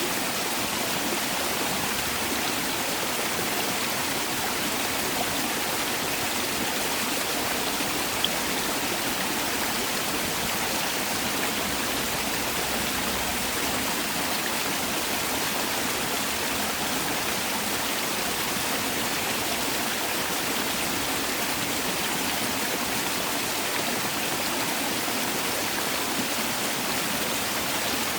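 Mountain valley stream running steadily over rocks, a continuous even rush of flowing water.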